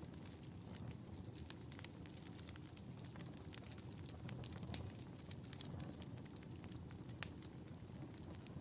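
Wood fire crackling in a fireplace: scattered sharp pops over a low steady rumble of flames, with one louder pop about seven seconds in.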